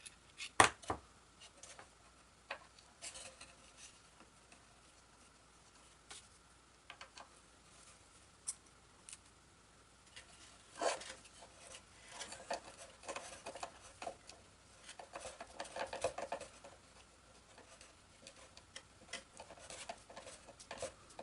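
Small hardware and hand tools being handled on a workbench: scattered clicks, taps and light scraping, with a sharp click just over half a second in and a busier run of taps and rustling in the second half.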